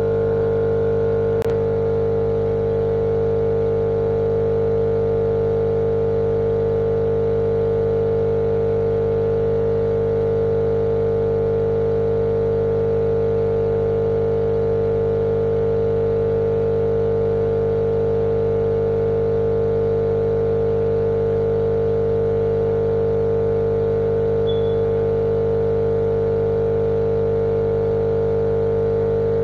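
Steady white-noise drone for lulling a baby to sleep: an even, unchanging motor-like hum with one strong mid-pitched tone. There is a faint click about a second and a half in.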